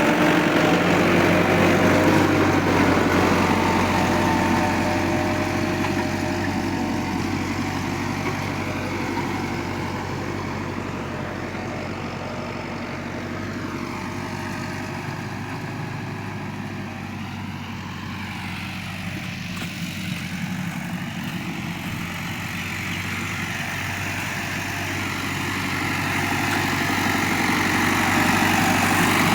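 Tractor engine running steadily. It grows quieter toward the middle and louder again near the end, as if the tractor moves away and comes back.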